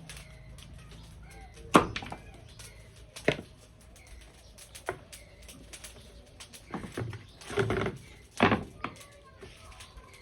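A knife chopping on a cutting board: single heavy strikes about every second and a half, then a quicker cluster of chops near the end.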